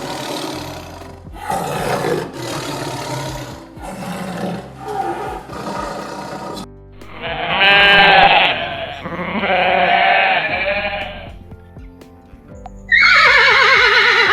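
A run of animal calls with music behind them: repeated short calls in the first half, then long pitched livestock calls, then a horse starting to whinny near the end.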